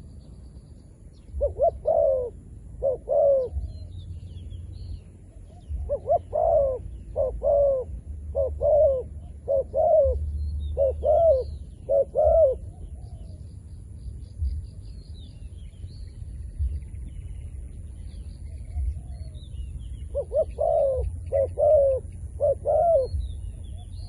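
A decoy dove cooing in groups of short coos that rise and fall in pitch: about three near the start, a run of about nine in the middle, and about five near the end. Faint chirps of small birds and a low rumble lie underneath.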